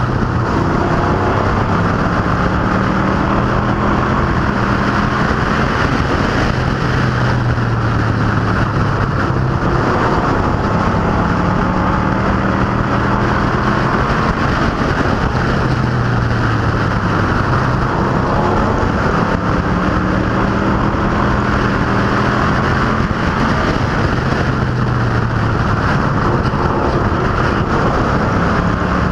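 Stock cars and pro trucks racing on a short oval track, their engines running hard in a continuous loud drone, with engine pitch rising and falling every several seconds as cars come past and lift for the turns.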